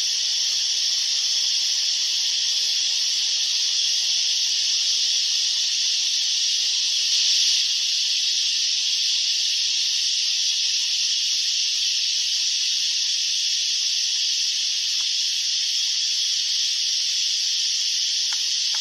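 Dense chorus of cicadas: a steady, high-pitched buzzing drone that swells briefly about seven seconds in.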